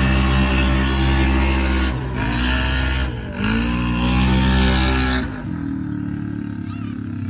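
A big race truck engine under hard throttle, its pitch climbing. It briefly lifts off and climbs again twice, then settles to a lower, quieter run near the end.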